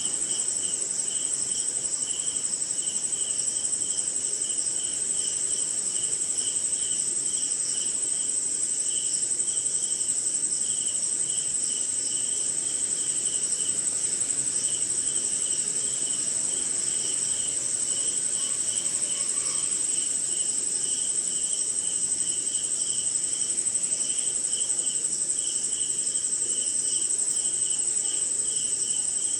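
Night chorus of crickets and other insects: one steady, unbroken high trill, with lower chirps pulsing two or three times a second beneath it.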